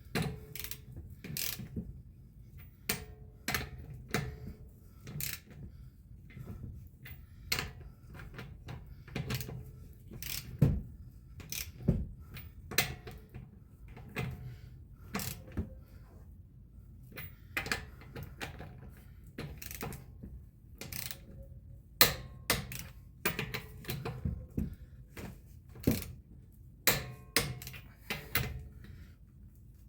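Irregular clicks and knocks of metal hand tools being worked and handled during car maintenance, roughly one a second, a few with a short metallic ring.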